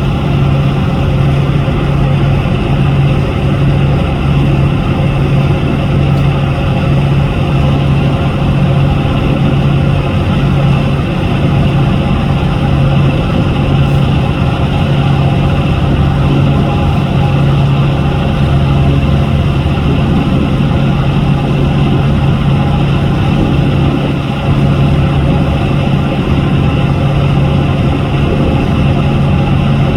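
A boat's engine running steadily on the river, a constant low hum with rushing noise that holds even throughout.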